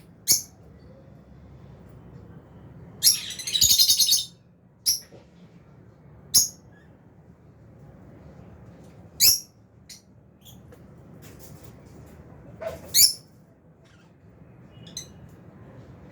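Aviary lovebirds, Fischer's and albino, giving short shrill chirps every second or few, with a longer chattering burst of calls about three seconds in.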